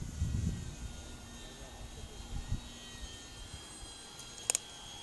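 Radio-controlled scale Cessna 400 Corvalis model plane flying some way off, its motor a faint thin steady whine that drifts slightly in pitch, with low wind rumble on the microphone and a short sharp click near the end.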